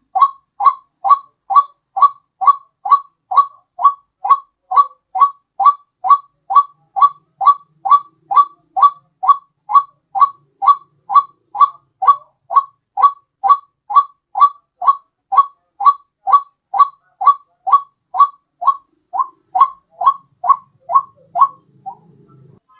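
White-breasted waterhen (ruak-ruak) lure call repeated over and over: a short note that falls slightly in pitch, nearly three times a second in an even rhythm. It breaks off briefly near the end.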